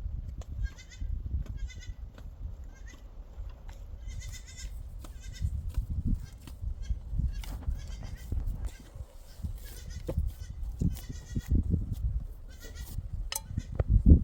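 A herd of goats and sheep bleating, many short, high, wavering bleats overlapping one after another. A low rumble runs underneath.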